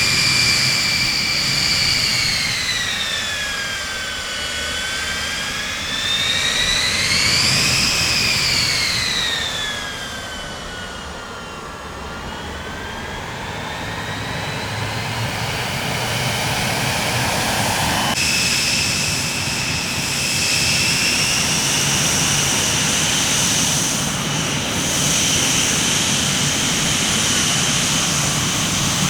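Jet aircraft engines with a high turbine whine over a rumble, the whine falling, rising and falling again in pitch, then changing abruptly about 18 seconds in to a steadier, higher whine.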